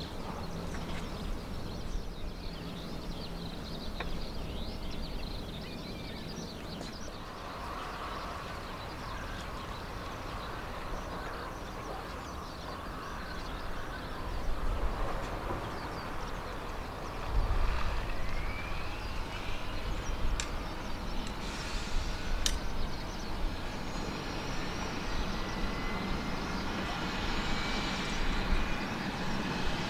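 Kawasaki BK117 C-1 helicopter's turboshaft engine starting: about halfway through, a whine rises steadily in pitch as the turbine spools up over a low rumble.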